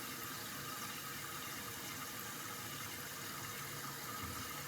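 Toilet tank refilling after a flush: a steady hiss of water running into the tank.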